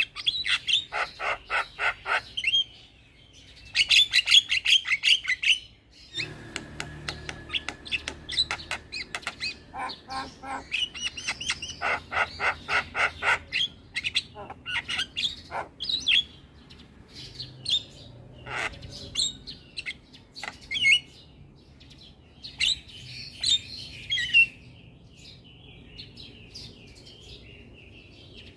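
Javan myna (jalak kebo) calling: runs of sharp, rapidly repeated notes, several a second, in bursts separated by short pauses, played as a lure to get other mynas calling.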